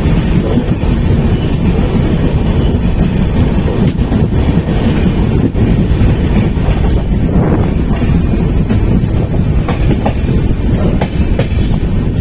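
Passenger train running on the rails: a steady, loud rumble with the wheels clacking over the rail joints.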